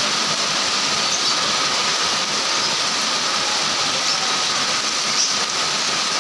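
Heavy tropical downpour falling steadily on a road, a dense, even hiss with no letup.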